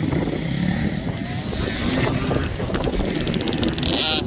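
KTM 50 two-stroke dirt bike engine running and revving, mixed with wind noise on the microphone; its silencer needs repacking.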